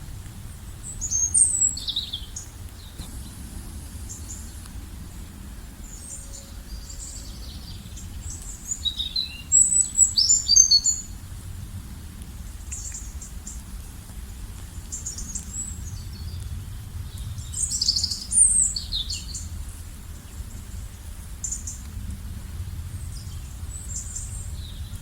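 Wild birds singing and calling in quick high chirps and short whistled notes, coming in bunches about a second in, around ten seconds in and again near eighteen seconds, over a steady low rumble.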